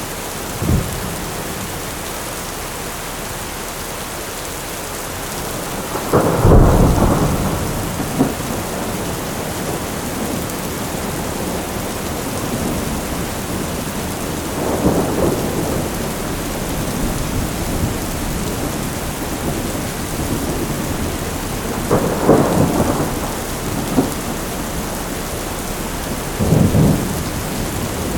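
Heavy rain falling steadily in a thunderstorm, with rolls of thunder rumbling in several times; the loudest clap comes about six seconds in, with further rumbles around the middle and twice more near the end.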